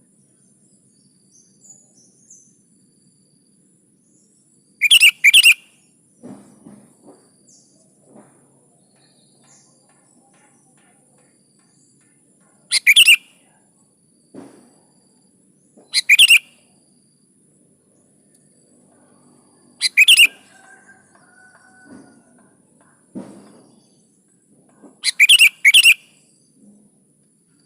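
Sooty-headed bulbul (kutilang) giving short, loud chirping calls in brief bursts every few seconds, several of them doubled in quick succession. Faint low knocks come between the calls.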